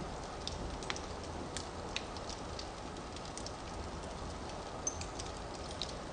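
Wood fire burning in a fireplace: a steady low hiss and rumble of the flames with irregular crackles and sharp pops of the burning logs, a few louder snaps about a second in, at two seconds and near the end.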